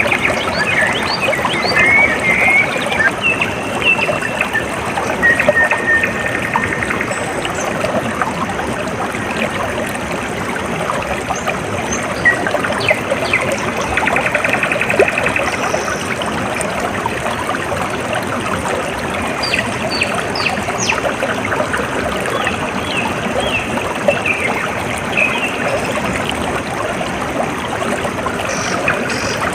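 Water trickling and splashing steadily, like a small stream or outflow. Small birds chirp and trill over it now and then, most near the start, around the middle and in the last third.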